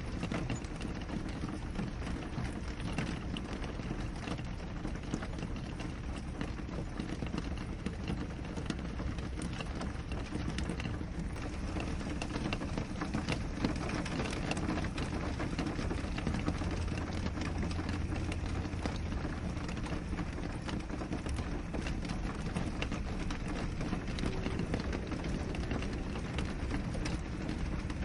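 Steady rain falling on a window pane: a dense, even wash of small drop hits over a low rumble.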